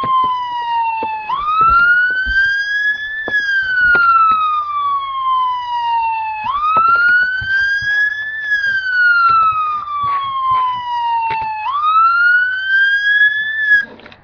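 Emergency-vehicle siren wailing in slow cycles of about five seconds: each cycle swoops quickly up in pitch, then falls slowly, three rises in all. It cuts off suddenly near the end.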